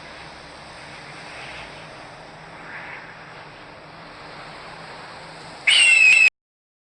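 A hawk's recorded call: a steady background hiss, then about six seconds in a single short, loud scream that drops slightly in pitch and cuts off abruptly.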